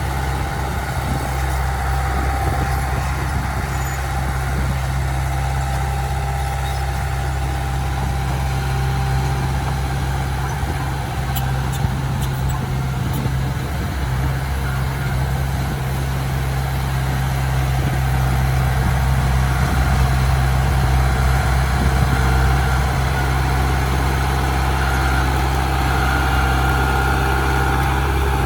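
Heavy earthmoving machinery's diesel engine running steadily with a deep hum, getting somewhat louder about two-thirds of the way through.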